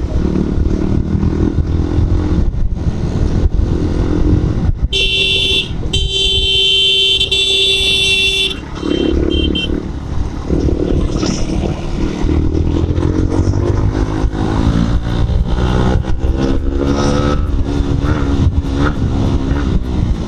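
Bajaj Pulsar NS125's single-cylinder engine running under way, with rising revs from about halfway through as the bike accelerates through the gears. A vehicle horn sounds twice about five seconds in, the second blast held for a couple of seconds, then briefly again.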